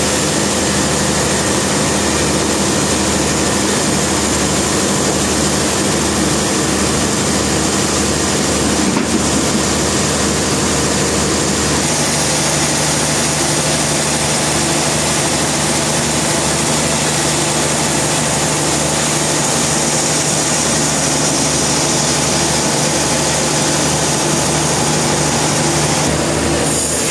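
Sawmill machinery running steadily: a low engine hum under a broad high hiss, the hum shifting in pitch about twelve seconds in.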